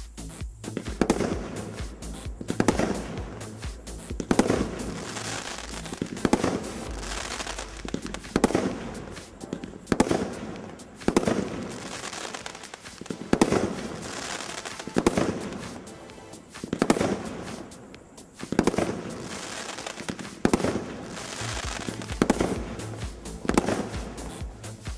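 A 30-shot, 350-gram consumer firework cake (Brothers Pyrotechnics Irish Legend) firing in sequence: sharp launch-and-burst bangs about every one to two seconds, each trailing off in an echo, with background music underneath.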